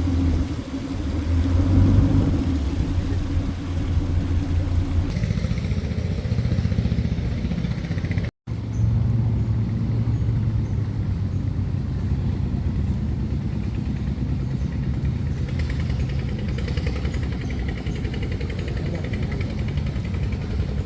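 An engine running steadily. The sound changes abruptly about five seconds in and drops out for a split second a little after eight seconds, at edit cuts.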